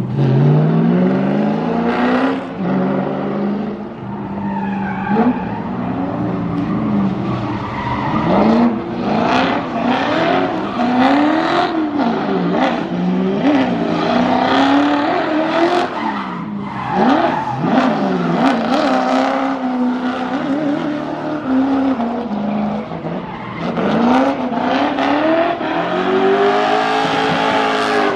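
A procession of Nissan GT-R sports cars driving past, engines revving up and down in repeated rising and falling sweeps, one car after another with their sounds overlapping.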